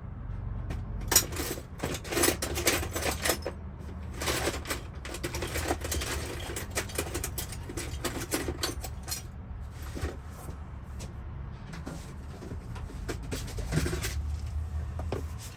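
Metal keys clinking and jangling in repeated clusters as they are sorted through by hand, over a steady low hum.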